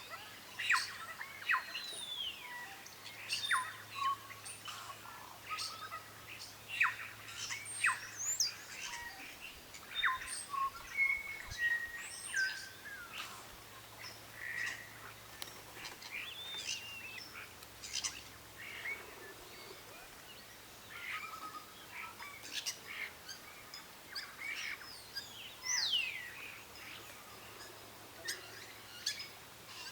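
Several birds calling and chirping at once, with many short chirps and quick sweeping notes overlapping throughout.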